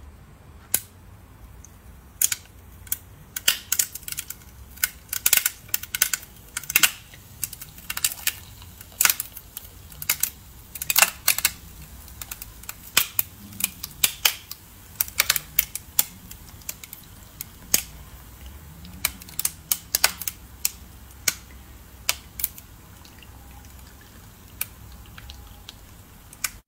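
Hard clear ice cracking and crunching in a run of short, sharp, irregular clicks, several a second at the busiest, thinning out over the last few seconds.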